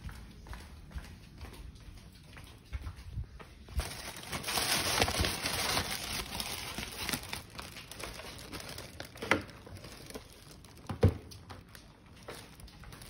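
Rustling and handling noise from a camera being carried, with a louder crinkling, rustling stretch a few seconds in and two sharp knocks about two seconds apart later on.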